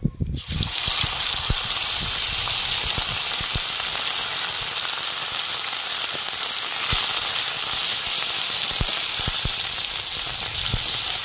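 Wet boiled onion paste hitting hot oil in a metal wok, starting suddenly about half a second in and settling into a loud, steady sizzle. Short knocks of a metal spatula stirring it come through the sizzle.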